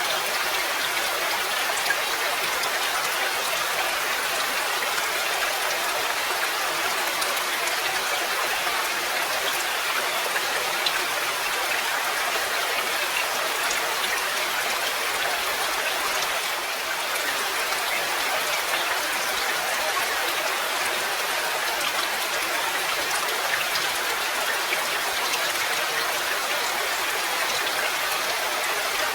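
Steady rain falling: an even hiss of many small drops, with faint scattered ticks of individual drops and little low rumble.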